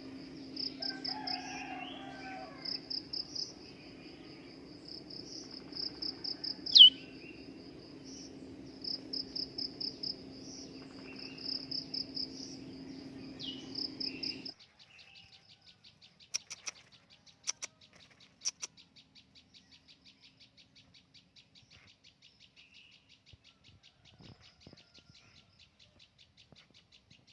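High-pitched chirping in repeated bursts of rapid pulses over a steady low hum, with one loud, sharp, falling chirp a few seconds in. About halfway through it cuts to a fainter, continuous fine high trill with a few sharp clicks.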